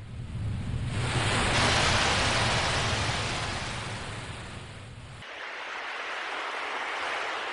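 Ocean waves breaking and washing up: one wave surges in, loudest about two seconds in, and draws back, and a second, smaller one rolls in about five seconds in.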